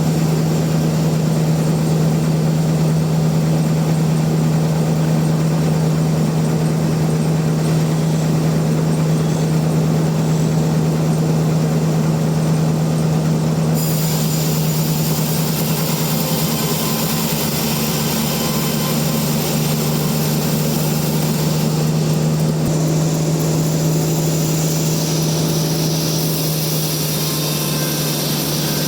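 Sawmill machinery running with a steady low hum. About halfway through, a higher hiss joins in and continues.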